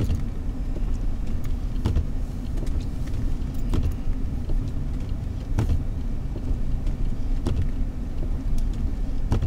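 Car driving, steady engine and road rumble heard inside the cabin, with a light knock about every two seconds.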